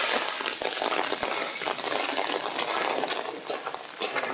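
Rain falling on a flooded yard, with runoff water running over a washed-out gravel driveway: a steady hiss dotted with many small drop ticks.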